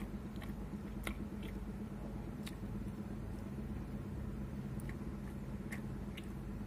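Someone chewing a mouthful of rice and side dishes, with a few short, faint wet mouth clicks, over a steady low hum.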